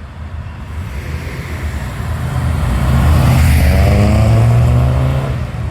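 A car's engine under throttle as the car drives past, swelling from about two seconds in and dropping away near the end.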